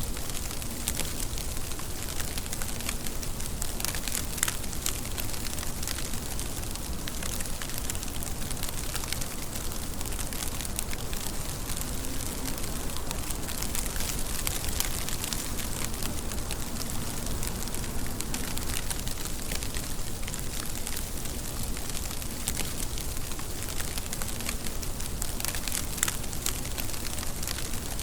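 Steady rain falling, an even hiss with many small drops pattering and ticking through it.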